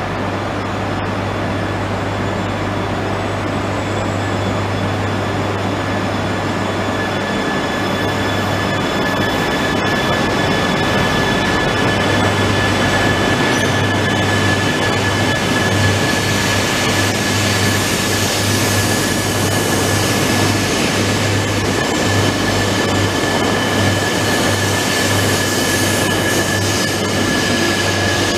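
Genbi Shinkansen, an E3-series shinkansen set, pulling out of the station and rolling past: a steady low hum while it stands, then rolling noise from the passing cars that builds from about halfway in. A steady high whine sounds throughout and grows stronger as the train moves off.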